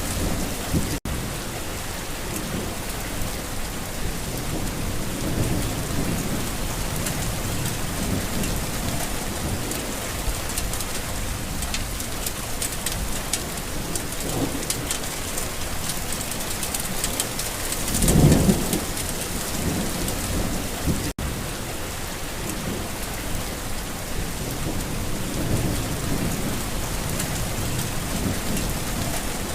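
Steady rain falling on a garden, with thunder rumbling low again and again and one louder roll of thunder about eighteen seconds in.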